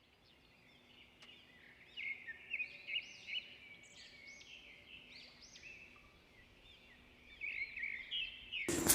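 Small songbirds chirping: many quick, high chirps and short up-and-down calls overlapping, starting about a second in. A sudden, louder sound cuts in just before the end.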